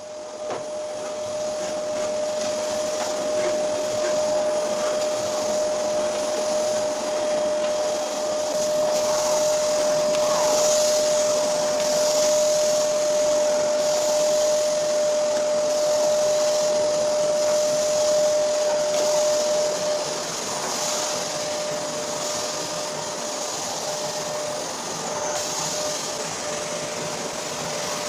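Vacuum cleaner running steadily, its motor giving a constant whine over a rushing air noise; the whine fades about two-thirds of the way through and returns near the end.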